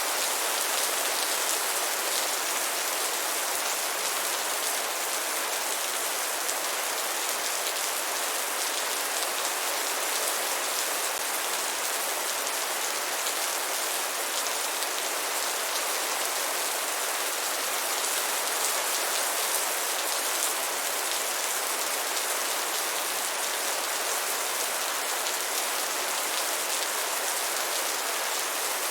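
Steady rainfall, a dense even hiss of raindrops pattering on a surface, with no thunder or other events.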